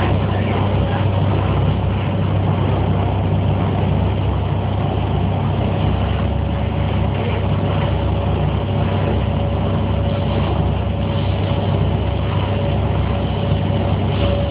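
Cabin noise inside an MTR K-train electric multiple unit car: a steady low rumble and hum. A faint steady whine joins about six seconds in.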